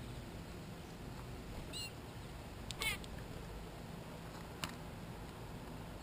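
A bird's short nasal call, faint once and then louder about three seconds in, over a steady low rumble. A single sharp tap follows a couple of seconds later.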